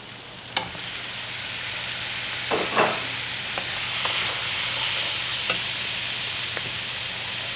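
Chopped tomatoes sizzling as they drop into a hot stainless skillet of frying onions, the hiss starting with a sharp knock about half a second in and then holding steady. A wooden spatula stirring them knocks against the pan a few times.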